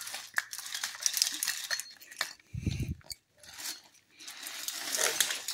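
Rummaging through a pile of clutter: hard objects clinking, clattering and rattling as things are moved and tossed aside.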